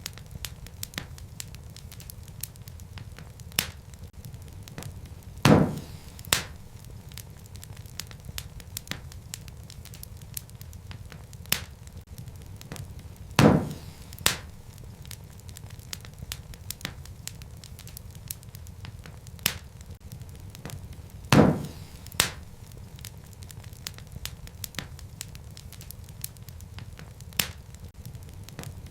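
Wood fire in a fireplace crackling: frequent sharp snaps over a low steady rumble of the flames, with a louder pop about every eight seconds.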